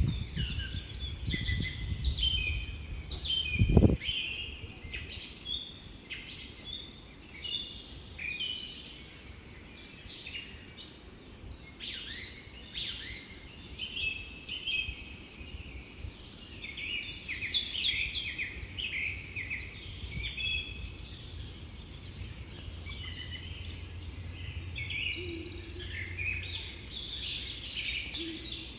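Many small birds chirping and singing in overlapping short calls and trills, with a dull low thump about four seconds in.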